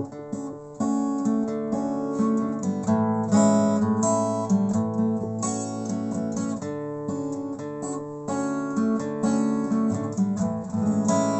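Acoustic guitar strummed and picked as a song's instrumental intro, in a steady rhythm.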